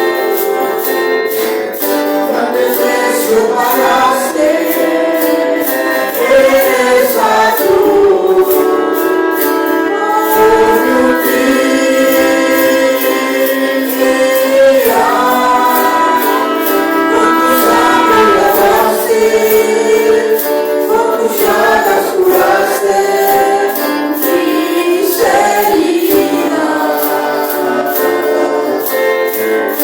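A congregation singing a worship hymn together, with female voices prominent, over a steady beat with tambourine-like ticks.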